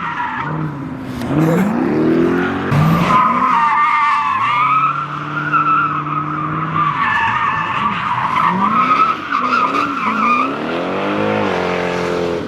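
A car's engine revving up and down repeatedly while its tires squeal continuously as it spins them, with the squeal wavering in pitch.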